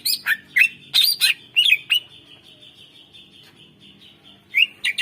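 Cucak ijo (green leafbird) singing a rapid run of sharp, sweeping high notes for about two seconds. A thin steady high tone follows, then another burst of notes near the end.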